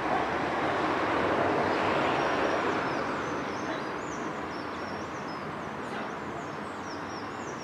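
A steady rushing background noise, loudest in the first few seconds and then easing off, with a small bird giving a quick series of short, high, thin chirps from about three seconds in.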